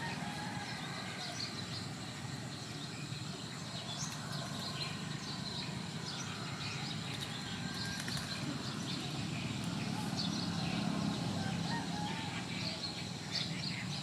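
Many short bird calls and chirps, scattered and overlapping, over a low steady rumble.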